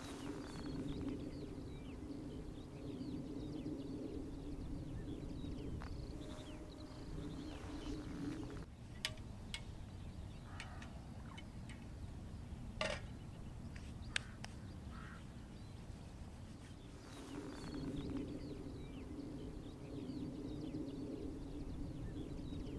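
Birds calling over a steady low hum. The hum drops out about a third of the way in and returns near the end, with a few sharp clicks in between.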